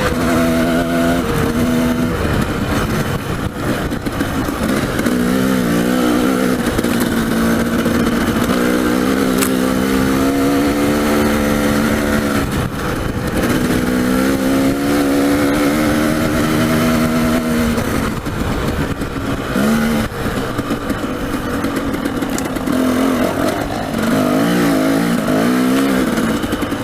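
Dirt bike engine ridden off-road, revving up and easing off again and again as the rider works the throttle over rough trail, with a steady rush of noise underneath.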